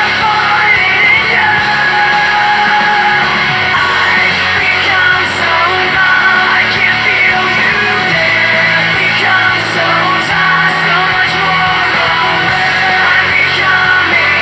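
Loud rock music with electric guitar and vocals.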